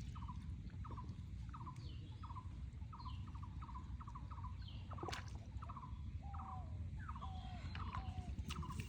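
A bird calling over and over in short notes, about two a second, with a few higher falling chirps and a sharp click about five seconds in, over a steady low background rumble.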